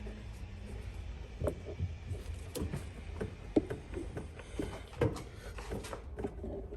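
Small irregular clicks and knocks of hand tools working the clamps and hoses off a fuel pump, over a steady low hum.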